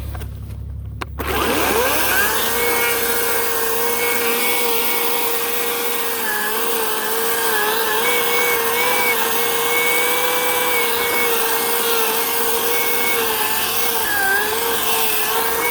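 Ryobi 18-inch battery electric chainsaw spinning up about a second in, then running steadily while cutting birch, its whine dipping in pitch several times as the chain bites into the wood.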